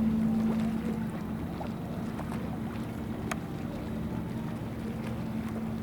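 A boat engine running with a steady low hum that eases off a little after the first second. A single sharp tick comes about three seconds in.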